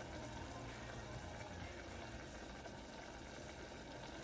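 Faint, steady bubbling of instant noodles cooking in a little water in a pot on a turned-down stove.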